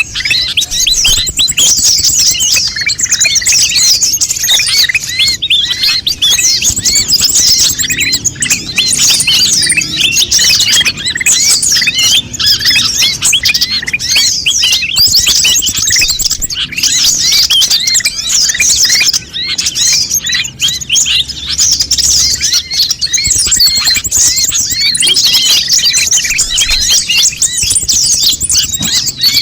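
Konin songbirds chirping busily, many high, quick calls overlapping in an unbroken chatter. It is the kind of recording used to lure konin and to teach caged birds to sing.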